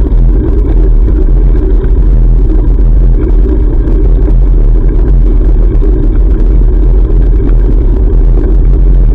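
Steady low wind rumble on an action camera's microphone while cycling.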